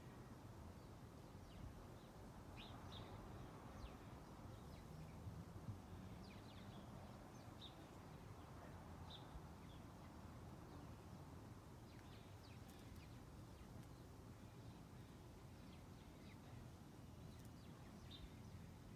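Near silence: faint outdoor background with a low steady hum and scattered short, high bird chirps.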